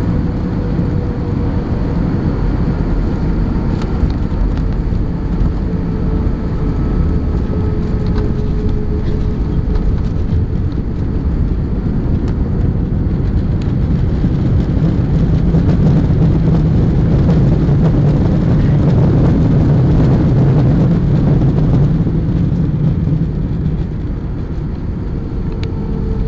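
Airbus A320 cabin noise heard from a window seat during landing: a steady, loud rumble of the engines and airflow with a faint tone. Around the middle it swells louder for several seconds, then eases off.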